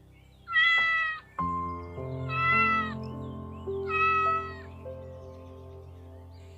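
A cat meowing three times, each call high and drawn out. Background music with held notes comes in about a second and a half in and runs under the second and third meows.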